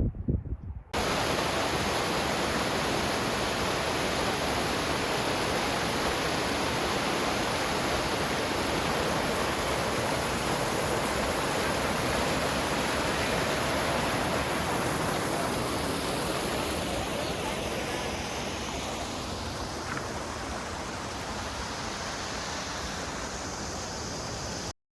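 Steady rush of flowing water that starts abruptly about a second in. It eases off slightly in the last third and cuts off suddenly near the end.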